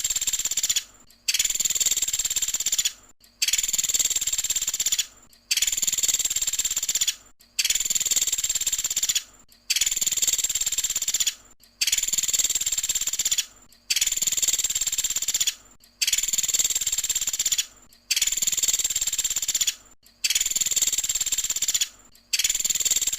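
Pelatuk sampit bird calling in loud, high, rasping bursts of about two seconds each, repeated roughly every two seconds with short breaks between them. These are the 'tembakan' shots used in a tutoring recording for cage birds.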